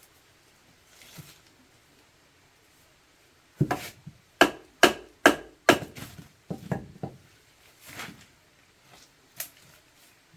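Chopping into wood with a blade: a quick run of about eight sharp strokes in the middle, then two more spaced-out strokes near the end.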